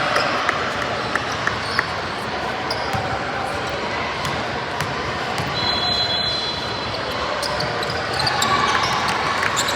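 Basketball game in a gym: the ball bouncing on the hardwood, with scattered sharp knocks and a steady hum of spectator voices. There is a brief high squeal about six seconds in.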